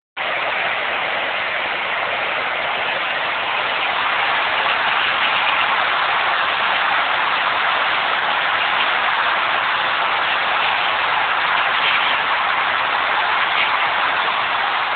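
Nissan RB20DET turbocharged straight-six running with a steady grinding noise, which the owner places in one of the rotating accessories outside the engine rather than in the engine block.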